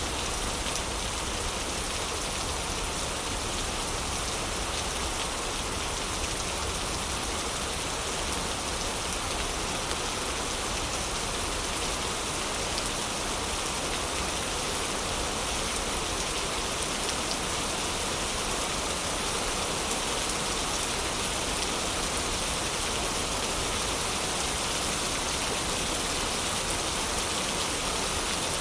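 Heavy rain falling steadily as an even hiss, with a few faint ticks scattered through it.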